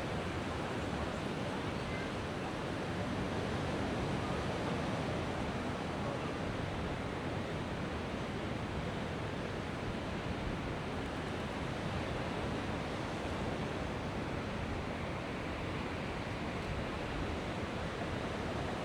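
Mediterranean surf washing onto the beach in a steady, unbroken rush of waves.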